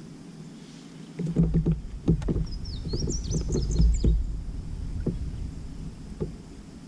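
Knocks and a low rumble of things being handled against a kayak hull, loudest from about a second in to about five seconds, with a brief run of short high squeaks in the middle.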